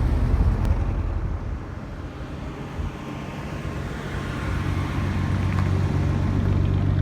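Car engines rumbling low as cars cruise slowly past; the sound fades about two seconds in, then another engine draws near and runs steadily.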